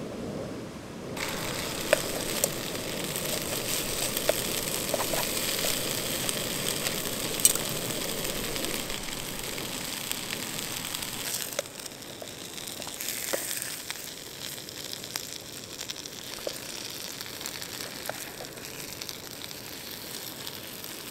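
Slices of rolled pizza dough with ham and cheese frying in a Trangia frying pan: a steady sizzle with occasional small pops. The sizzle starts about a second in and gets quieter about halfway through.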